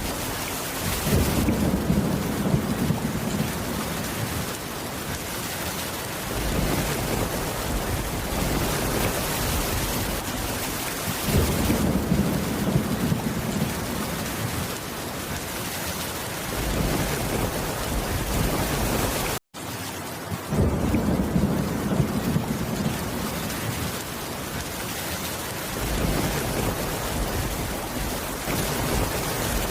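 Steady rain with low rolls of thunder rumbling up and fading about every ten seconds, three or four times. A split-second gap of silence cuts through about two-thirds of the way in.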